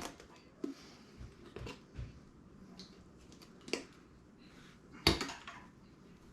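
Hand tools and loose parts clinking and knocking against the metal of a 5.3 LS V8 engine being taken apart, a scatter of separate clanks with the loudest about five seconds in.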